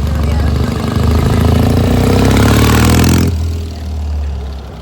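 Rickman Metisse motorcycle engine revved up, rising in pitch, then cut back abruptly to idle about three seconds in. The engine is worn and smoky, which the owner's host thinks needs a rebore.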